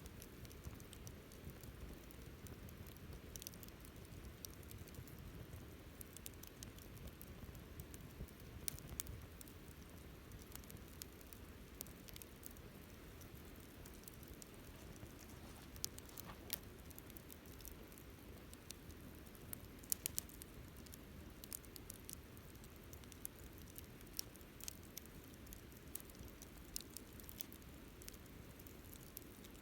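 Wood fire crackling faintly, with irregular sharp pops, a few louder than the rest, over a steady low rumble.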